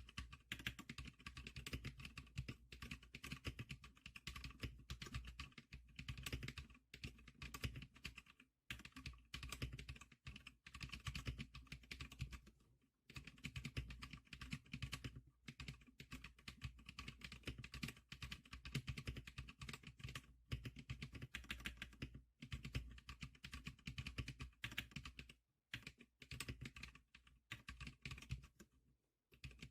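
Typing on a Zclicker SPK100 keyboard: fast, continuous keystrokes with a few brief pauses.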